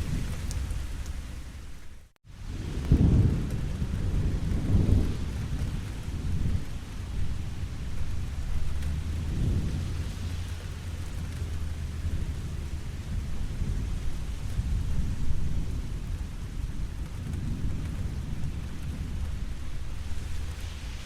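Steady rain falling, with low rolling thunder swelling up several times. The sound drops out almost to silence for a split second about two seconds in.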